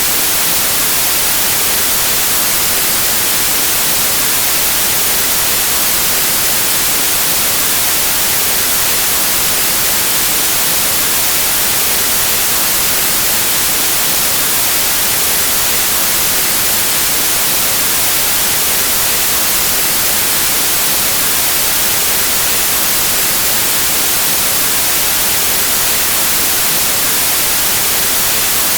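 White noise: a steady, even static hiss with no changes or events.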